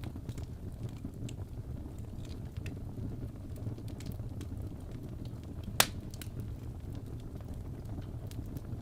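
Crackling fireplace: a steady low rumble of burning with scattered small pops, and one sharp, loud crack about six seconds in.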